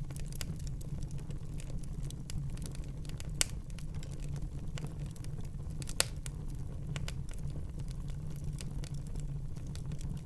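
Wood fire burning in a fireplace: a steady low rumble of the flames under frequent small crackles and pops, with two sharper pops about three and a half and six seconds in.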